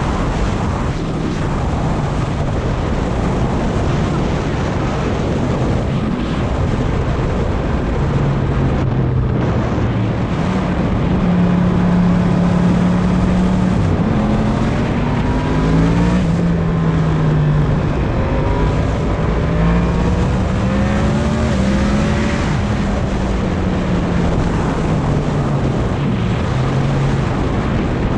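Yamaha MT-10's crossplane inline-four engine running on the move, its pitch climbing and dropping several times with throttle and gear changes, under heavy wind noise on the microphone.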